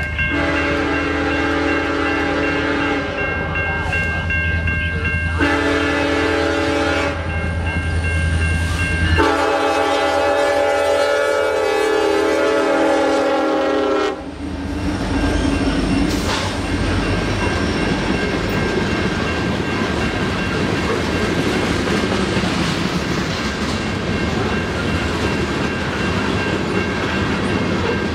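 Diesel locomotive's multi-chime horn sounding three blasts, the last one about five seconds long, over a low engine drone. Then the loaded ore train's cars roll past in a steady rumble with the clatter of wheels over the rails.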